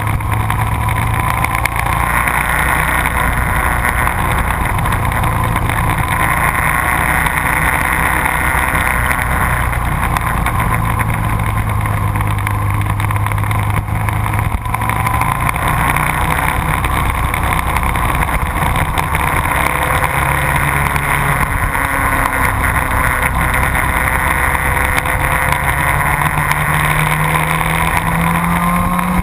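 Motorcycle engine running hard, its pitch rising and falling every few seconds with throttle and gear changes, and climbing near the end.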